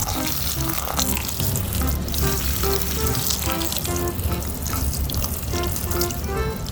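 Water running and splashing, as when rinsing muddy toy vehicles, under background music with a melody of short notes.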